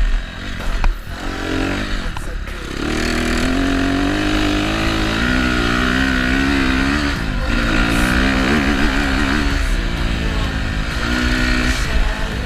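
Honda CRF250R's four-stroke single-cylinder engine running under riding load, its pitch rising and falling with the throttle and wavering quickly near the middle.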